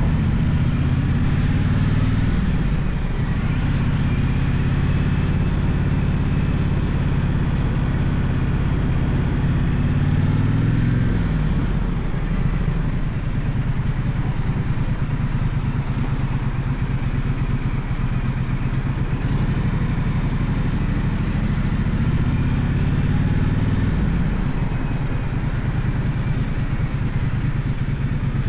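Gaokin GK1200 motorcycle engine running while being ridden, its note shifting a few times (about three seconds in, around eleven to twelve seconds, and near twenty-five seconds) as the throttle or gear changes, holding steady in between.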